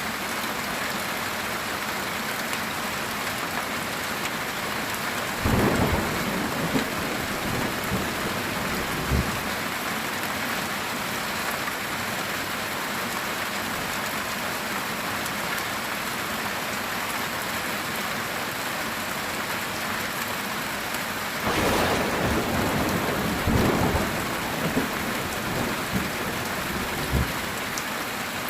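Heavy rain drumming steadily on a metal tin roof, with thunder breaking out twice: a short crack about a fifth of the way in and a longer, rolling crack about three quarters of the way through.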